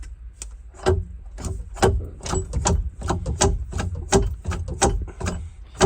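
A run of irregular, sharp metallic clicks and knocks, roughly two or three a second, from hands and tools working in the engine bay of a personal watercraft.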